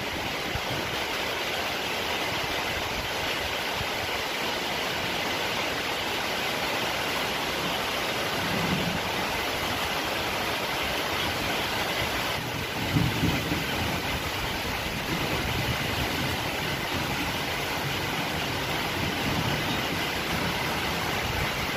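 Steady rain falling, a dense even hiss, with a couple of brief low rumbles around the middle.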